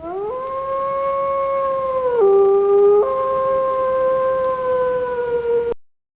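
A wolf howling in one long call. It rises in at the start and holds steady, dips lower for about a second, climbs back up, and then cuts off suddenly near the end.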